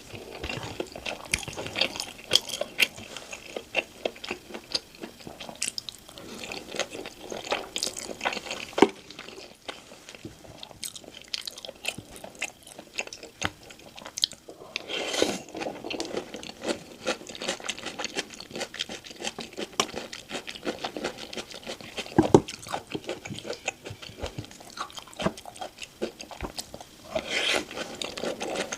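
Close-miked eating: crisp crunching and chewing of crispy glazed Korean fried chicken (dakgangjeong), dense irregular crackles with a couple of sharper clicks.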